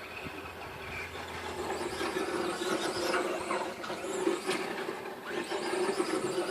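Electric motor of a battery-powered RC car whining steadily as it drives, a little louder after a couple of seconds, while its battery is being run down.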